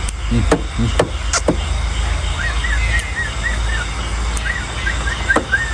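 A bird giving a quick series of short chirps, about four a second, for a few seconds in the second half, over a steady low rumble, with a few sharp clicks in the first second and a half.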